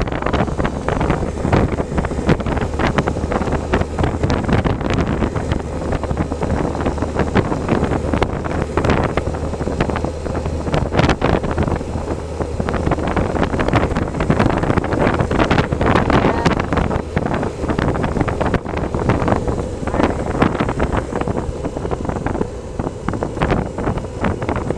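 Heavy wind buffeting the microphone of a moving motorcycle, gusting unevenly, with a steady low engine hum underneath that fades out about two-thirds of the way through.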